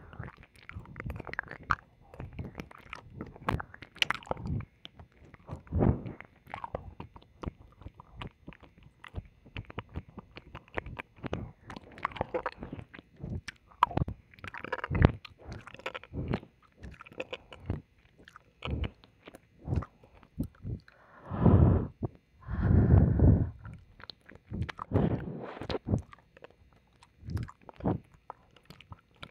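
Close-microphone ASMR mouth sounds at the left ear: wet licking, kissing smacks and tongue clicks in a steady irregular stream. Two longer, louder wet stretches come about two-thirds of the way in.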